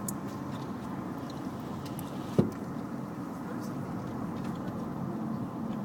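Steady road and engine noise inside a moving car's cabin, with one sharp knock about two and a half seconds in.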